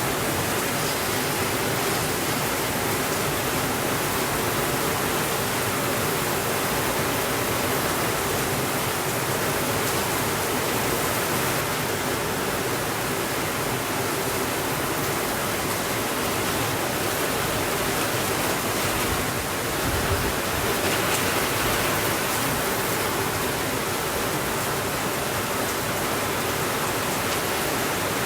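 Steady rainfall, a dense even hiss with no pauses and only a slight swell about twenty seconds in.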